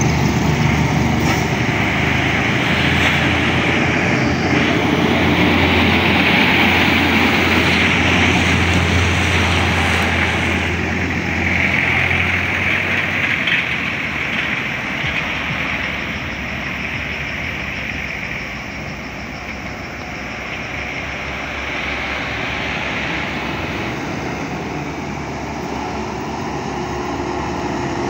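A heavy road vehicle, a bus or truck, passing with its engine running. A steady low engine note holds for about the first dozen seconds, then fades out, leaving road and engine noise that eases off and picks up slightly again near the end.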